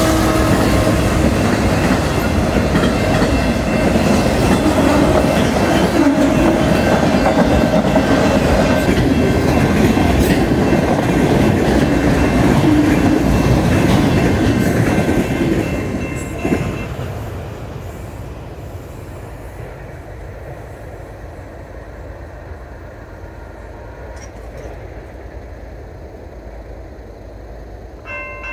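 Freight train cars rolling past at speed: a loud rumble with clatter of wheels over the rails, and steady high ringing tones over it. About sixteen seconds in it drops suddenly to a much quieter low rumble.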